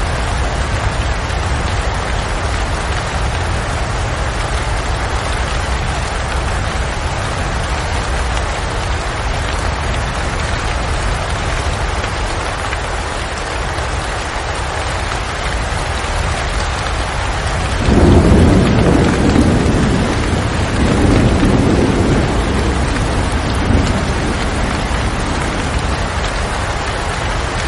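Steady heavy rain, with a roll of thunder breaking in about two-thirds of the way through and rumbling low in several swells for about six seconds before fading back under the rain.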